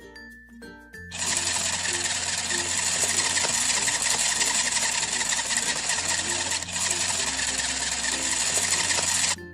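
Toy kitchen appliance running with a loud, steady whirring, mechanical noise that starts about a second in and cuts off sharply near the end, with a brief dip partway through; children's background music plays underneath.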